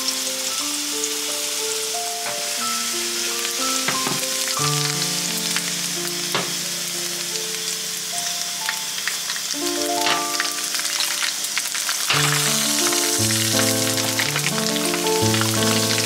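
Garlic, cumin and mustard seeds sizzling in hot oil in a nonstick frying pan, with a few sharp taps from a wooden spoon stirring. The sizzle sits under background music, and the whole mix gets louder about twelve seconds in.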